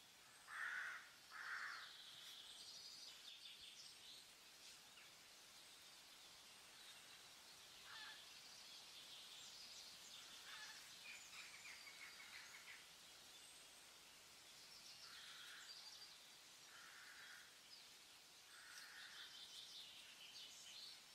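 Near silence with faint bird calls: two short calls about a second in, then scattered faint chirping.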